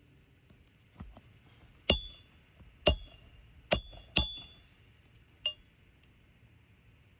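A roofing hammer striking a steel roof snake (shingle nail remover) with sharp, ringing metal-on-metal blows: about five hits, the strongest in the middle, then a lighter tap. The blows drive the snake under the shingle to cut or pull the nails.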